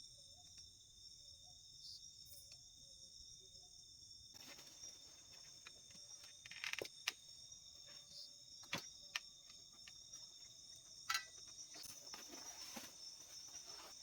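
Crickets and other insects trilling steadily in a high-pitched chorus. From about four seconds in, faint rustling joins it, with several sharp clicks and knocks, the loudest two near the middle.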